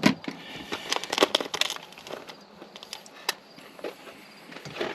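Irregular clicks, knocks and rustles of hands handling parts, with a sharp knock right at the start and a quick cluster of clicks about a second in.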